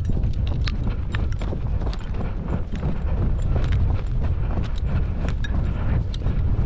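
Hurried footsteps through a grass field, with many irregular clicks and knocks of gear and a heavy steady rumble from movement on a shotgun-mounted camera.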